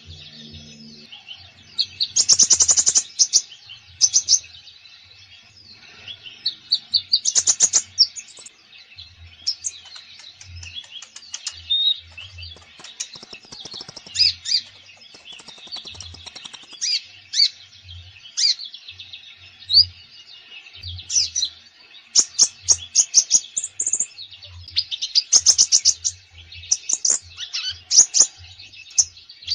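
Konin songbird in full song: bursts of rapid, high chirps and trills that repeat every second or two with short pauses between, a varied song packed with filler phrases ("full isian") of the kind used to coax silent birds into singing.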